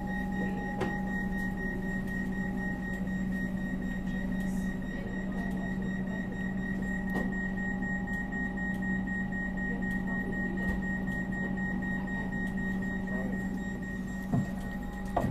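Steady electrical hum with a thin high whine inside a stopped passenger train carriage, from the train's onboard equipment. A single short knock sounds near the end.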